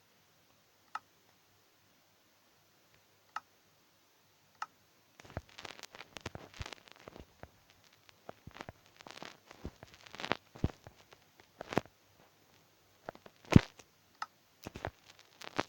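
Irregular sharp clicks and taps, sparse at first, then a busy stretch of clicking and rustling from about five seconds in, with the loudest knock near the end.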